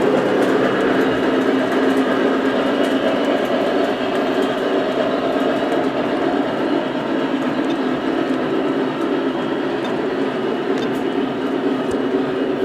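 Lionel Legacy UP Big Boy 4000 O-gauge model steam locomotive running steadily with its passenger train: a continuous running noise of the train on the track mixed with the engine's onboard sound effects.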